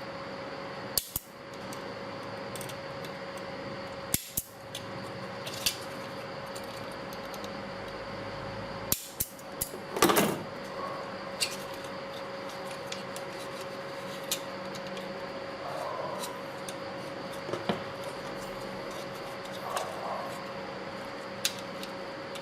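Metal tools and small metal parts clinking and knocking irregularly as an old stick welding machine is taken apart, with a louder cluster of clatter about halfway through. A steady hum runs underneath.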